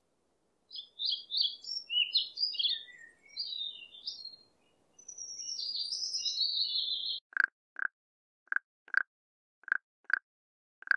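European robin singing high warbling phrases; about seven seconds in it gives way to a frog calling in short notes that come in pairs, a pair a little over a second apart.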